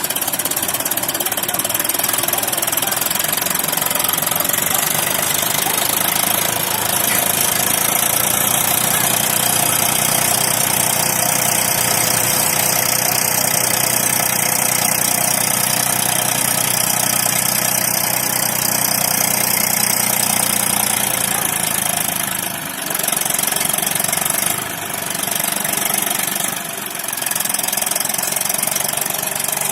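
Eicher 380 tractor's diesel engine running steadily with a clattering note, then easing off and picking up again a few times in the last several seconds.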